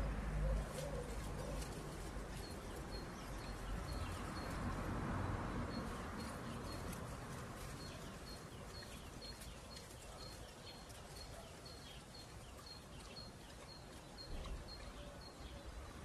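Quiet garden ambience with a small bird repeating a short high chirp about twice a second, and a low rumble in the first few seconds.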